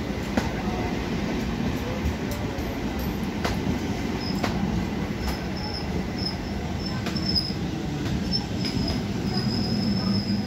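BEML-built EMU local train rolling slowly past a platform, with a low steady hum and a few sharp clicks from the wheels over the rail joints. A thin, high wheel squeal comes and goes from about four seconds in and holds steady near the end.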